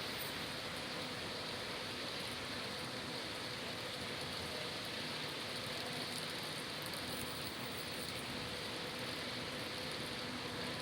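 Steady rain falling on city street surfaces, with a faint low hum of traffic underneath.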